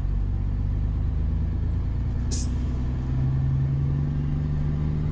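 Vehicle engine running steadily, rising slightly in pitch about three seconds in, with one brief click about two seconds in.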